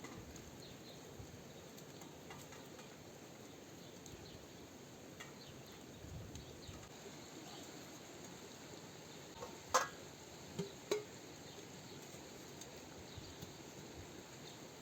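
Faint, steady outdoor background noise, with a few light clicks or knocks about two-thirds of the way through.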